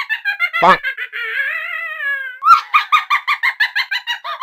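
A woman's loud, high-pitched laughter in quick, even bursts, about five a second. About a second in it gives way to a comic sound effect, a horn-like tone that slides downward, and then the laughter starts again.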